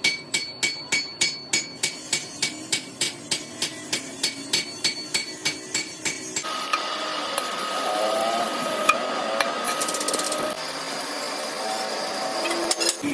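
Hammer striking steel in a steady rhythm of about three blows a second, each blow ringing. About halfway through, the blows stop and a steady rasping noise with a faint high whine takes over.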